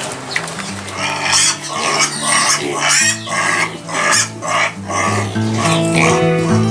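Background music with a run of short, rough animal calls over it, about two a second, starting about a second in and fading near the end.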